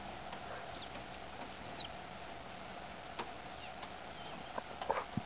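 Small birds giving a few short, high chirps, with scattered light taps and clicks that cluster near the end.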